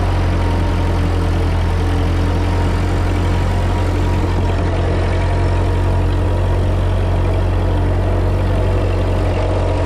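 Ford 2N tractor's four-cylinder flathead engine running steadily under load, pulling up a steep hill.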